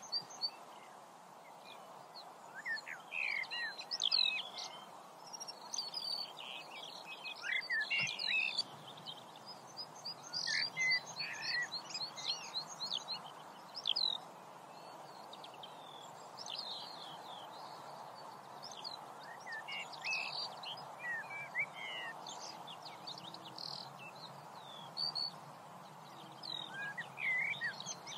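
Wild birds chirping and calling, many short quick notes scattered irregularly, over a steady background hiss.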